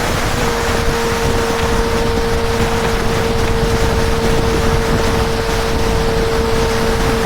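Honda CB650R's inline-four engine at a steady cruise, its note holding an even pitch, under heavy wind rush on the microphone.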